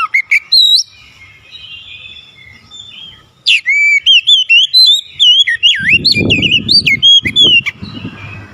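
Oriental magpie-robin singing loud, fast whistled phrases with quick sliding notes: one short burst at the start, then a quieter stretch, then a long run of varied song from about three and a half seconds in. A low rumbling noise runs under the song in the second half.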